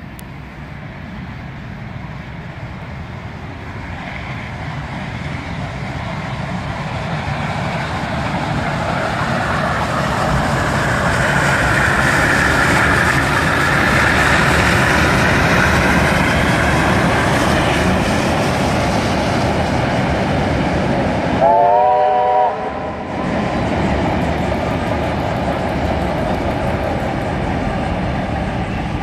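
Steam-hauled heritage train passing over a rail bridge: a steady rumble and wheel clatter that builds to a peak around the middle. About three-quarters of the way through comes a short chord-like warning blast lasting about a second.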